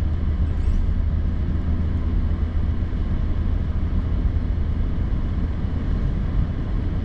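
Steady low rumble of a Toyota Tundra pickup driving on a snowy road, heard from inside the cab: engine and tyre noise with no sudden changes.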